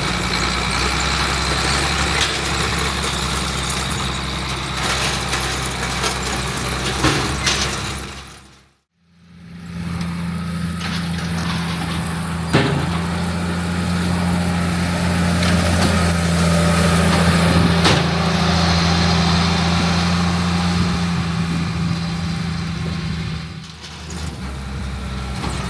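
Diesel engines of farm harvesting and baling machinery running steadily, with scattered mechanical clicks. About nine seconds in, the sound briefly fades out, then a different engine takes over, a steadier, deeper hum.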